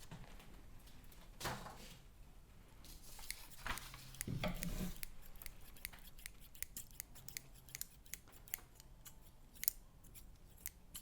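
Close-miked paper being handled: soft rustling, then a quick run of sharp, crisp clicks through the second half.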